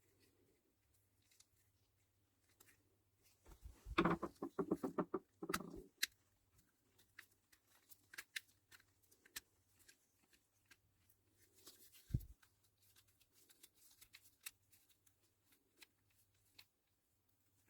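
Small mechanical clicks from a Shimano ST-7S20 shifter being handled on the bench: a quick ratcheting run of about ten clicks a second about four seconds in, scattered light ticks, and a single knock about twelve seconds in.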